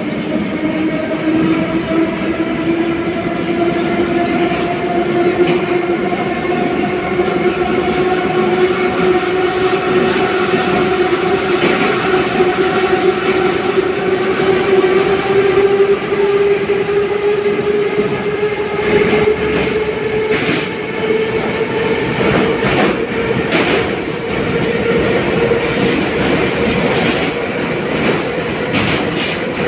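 81-717.5 metro car running between stations, heard from inside the car: a whine rising slowly in pitch as the train gathers speed, over the rumble of the wheels on the rails. In the second half come a run of clicks and knocks from wheels over the rail joints.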